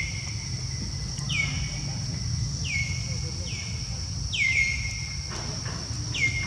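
A bird repeats a short falling chirp about six times, roughly once a second, over a steady high insect drone and a low outdoor rumble.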